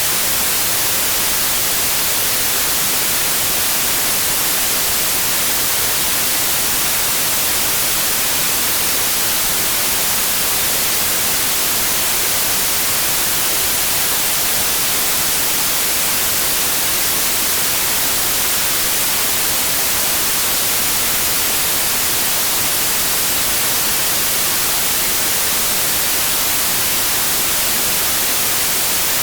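Steady white noise: an even, unchanging hiss, strongest in the high frequencies, with no tones or breaks.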